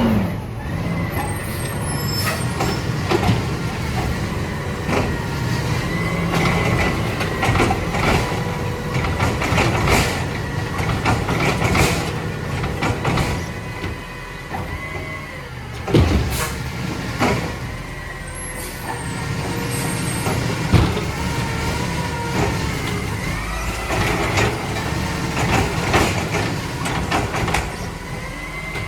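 Mack LR side-loader garbage truck with a Labrie Automizer arm working: the diesel engine runs steadily under a rising and falling whine, with repeated knocks and clanks throughout.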